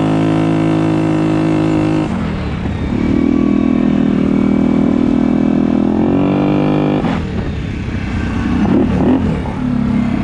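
Small mini bike engine being ridden, running at steady high revs, easing off about two seconds in and picking back up, then dropping off again around six to seven seconds in and running unevenly after that.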